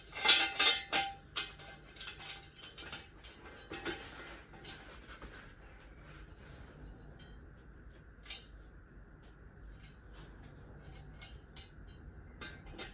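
Metal tools and car parts clinking and knocking together during hand work on a car: a busy run of sharp knocks over the first few seconds, then sparser taps and one louder click about eight seconds in.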